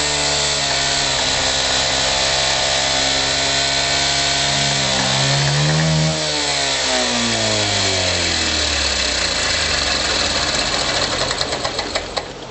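Honda Press Cub Fi's single-cylinder four-stroke engine idling steadily, revved briefly about five seconds in. It then slows gradually over several seconds, its last few firings heard as separate pops before it stops near the end.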